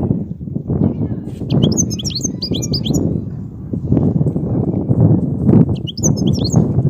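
European goldfinch singing: two short bursts of quick, high twittering notes, one about a second and a half in and one near the end. A louder, continuous low rumbling noise runs underneath the bird.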